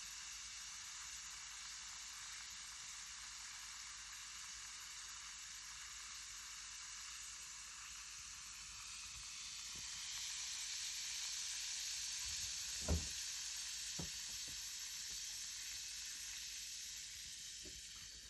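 Bath bomb of baking soda and citric acid fizzing in water: a steady crackling hiss of bubbles that grows louder partway through and eases off near the end. A sharp knock about 13 seconds in, and a lighter one a second later.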